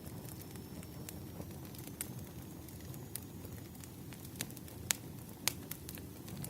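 Wood fire burning: a steady low rumble of flames with scattered sharp crackles and pops, two louder pops about five seconds in.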